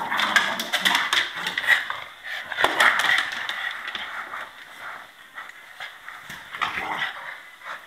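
Puppies play-wrestling: irregular scuffling and scrabbling with many short, sharp clicks, busiest in the first few seconds and again briefly near the end.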